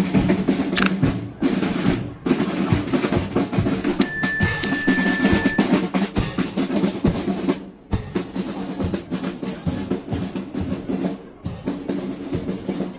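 Parade marching drums playing: snare drum rolls and bass drum beats, with a short high steady tone about four seconds in.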